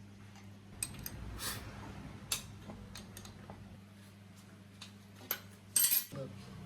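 Scattered light clicks and taps over a steady low hum, with a short louder rasp near the end.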